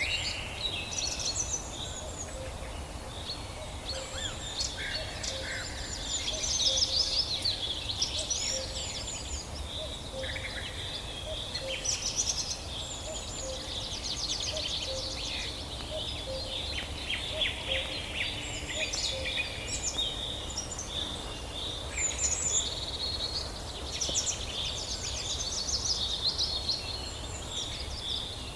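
Forest birdsong: several songbirds chirping and trilling at once in overlapping calls and quick note series, over a steady low background noise.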